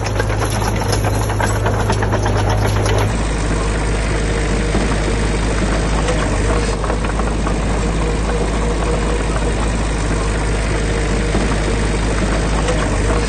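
Diesel engine of heavy construction machinery running steadily with a fast clatter. The sound changes abruptly about three seconds in.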